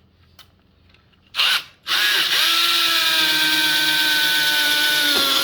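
Power drill blipped once, then run steadily for about three and a half seconds, drilling a bolt hole through the wall connector's plastic mounting plate. The motor's whine sags slightly in pitch as the bit cuts, and it stops at the end.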